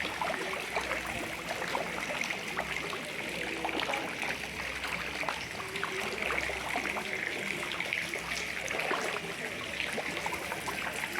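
Floodwater flowing fast: a steady rush of moving water with small splashes throughout.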